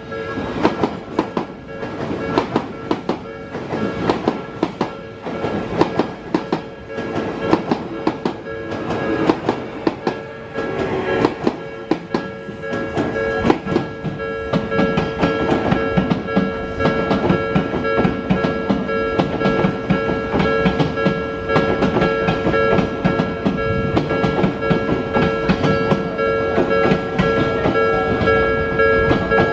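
Japanese level-crossing warning bell ringing continuously while Odakyu electric trains cross, their wheels clicking sharply over the rail joints, densest in the first half, with a steady rolling rumble of train running noise in the second half.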